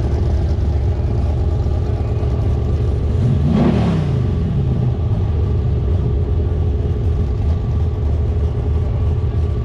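Car engine running steadily at a low rumble. About three and a half seconds in there is one brief rev that rises and falls in pitch.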